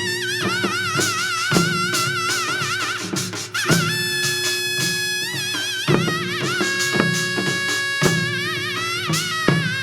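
Korean traditional music for a Jindo drum dance: a reedy wind melody with wide vibrato over a low drone, punctuated by loud drum strokes every one to two seconds.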